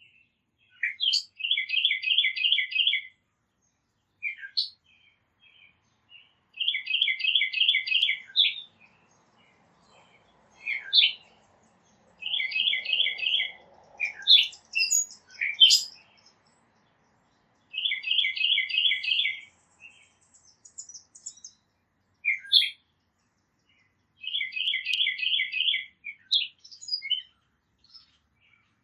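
A songbird singing a phrase of about six quick repeated two-note whistles, each phrase lasting about two seconds and coming back every five to six seconds, five times in all. Short single chip notes fall between the phrases.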